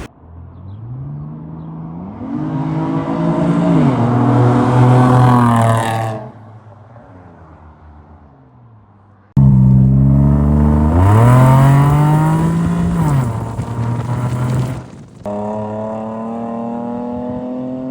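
Camaro on a newly fitted aftermarket exhaust accelerating, the engine note climbing and dropping as it goes up through the revs, in several short clips that cut off suddenly. The last few seconds hold a steadier, slowly rising engine note.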